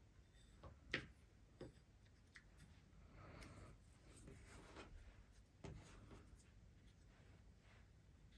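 Faint desk-top handling of small craft pieces: a few light clicks and taps, the sharpest about a second in, and a soft rustle of paper from about three to five seconds in.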